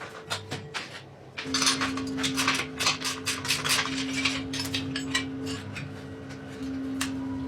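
Metal objects clinking and clattering in quick, irregular knocks, busiest from about a second and a half in, over a steady hum that starts at the same time.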